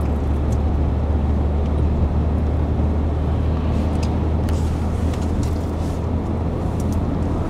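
Steady road and engine noise inside a moving car's cabin: a deep, even drone with tyre noise from a snow-covered road.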